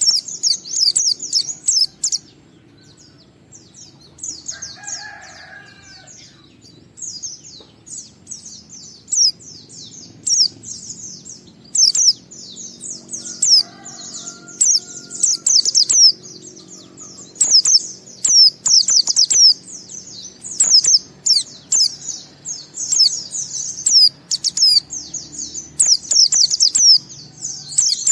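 White-eye (pleci) singing: rapid, high, twittering phrases in long runs, the ngalas style of song that keepers use as a lure. There is a pause a few seconds in, and a fainter, lower call sounds twice.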